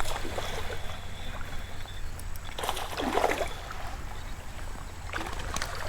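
Steady outdoor noise of flowing creek water with low wind rumble on the microphone, and a brief louder rush of noise about three seconds in.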